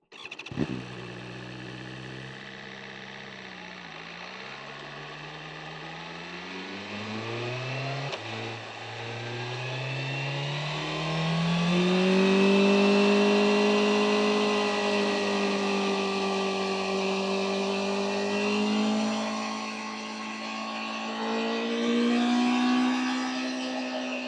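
BMW M1000R's inline-four engine pulling through the gears, its pitch rising and dropping back with each upshift, then running at a fairly steady high note from about halfway through, with wind noise.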